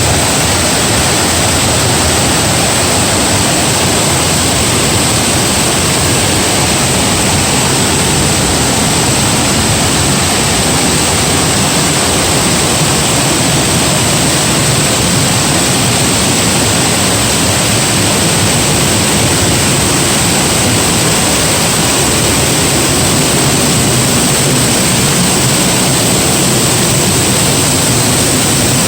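The steady, unbroken rush of a 75-foot waterfall (Dry Falls on the Cullasaja River), with a constant high-pitched hiss riding on top of it.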